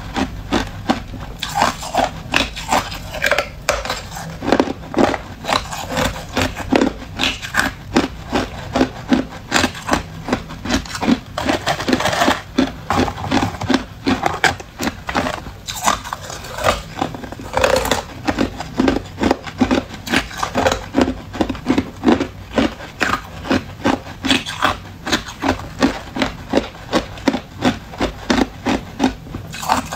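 Hard clear ice being bitten and chewed close to the microphone: loud, rapid crunching, about two crunches a second without a break.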